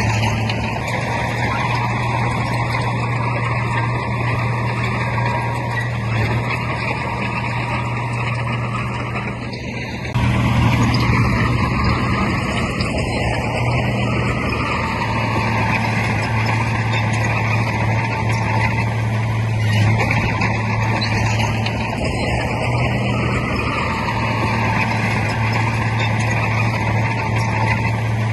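Heavy diesel earthmoving machinery running continuously with a strong, steady low engine drone. It gets suddenly louder about ten seconds in.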